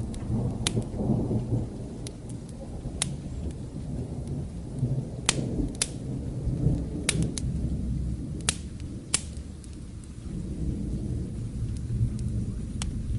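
Distant thunder rumbling low over steady rain, with a fireplace crackling and giving off sharp pops every second or so.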